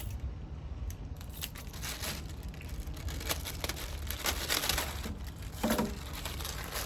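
A bag of potatoes being torn open and handled, its plastic crinkling and rustling in irregular bursts.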